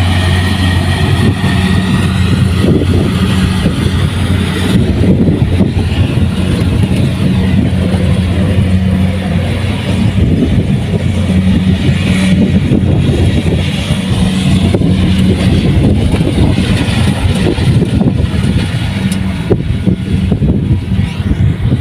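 Kubota rice combine harvester running steadily, a loud constant low engine drone with machinery noise over it.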